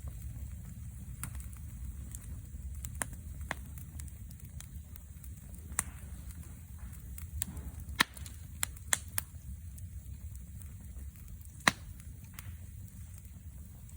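Wood fire burning with irregular sharp crackles and pops, the loudest about eight seconds in and again near the end, over a steady low rumble.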